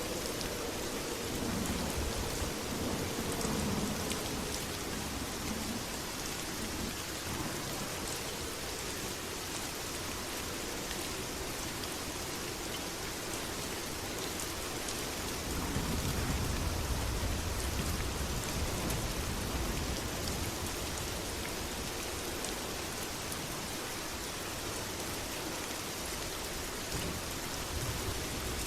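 Steady rain pattering on a surface. Low rumbles of thunder swell up about two seconds in and again a little past the middle.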